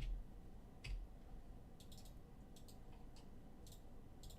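Faint, light clicks, about eight of them at uneven intervals, some in quick pairs, such as a computer mouse being clicked.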